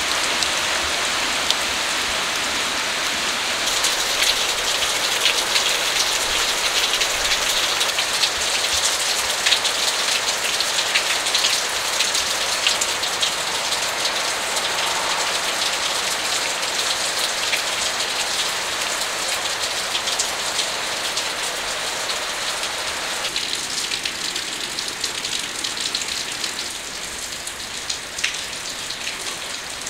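Steady rain falling, with many separate drops tapping close by, easing slightly toward the end.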